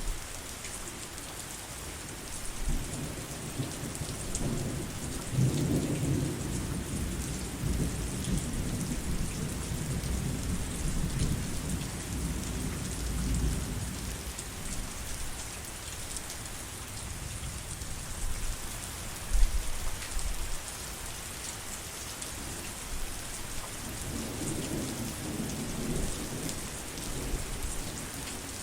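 Heavy rain falling steadily, with thunder rumbling low for about ten seconds starting near three seconds in, and again briefly near the end. A sharp loud crack comes in between.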